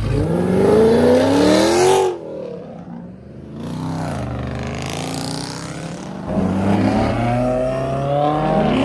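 Car engine revving hard: its pitch climbs for about two seconds and cuts off suddenly. It runs lower and steadier, then climbs again from about six seconds in.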